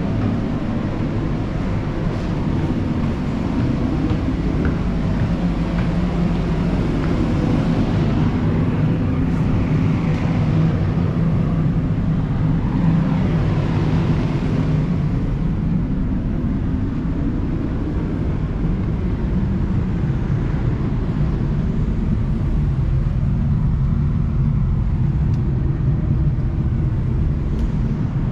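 Steady low rumble of a large engine running without let-up.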